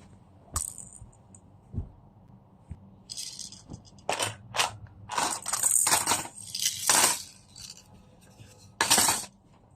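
Household items being handled during cleaning: a couple of light clicks, then a run of short, sharp swishing and clattering strokes, the loudest near the end.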